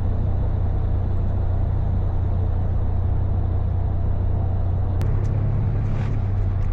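Steady low mechanical rumble with a deep constant hum, from a vehicle in motion, with a single click about five seconds in.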